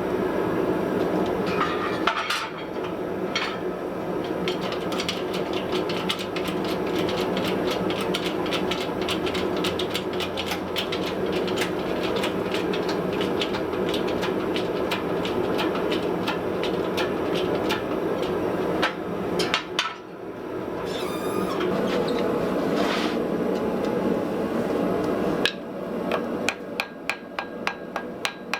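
Hammer blows forging a piece of hot wrought iron and steel on an anvil: a steady run of strikes, about three a second, over a steady background noise. The blows stop for a few seconds about two-thirds of the way through, then start again near the end.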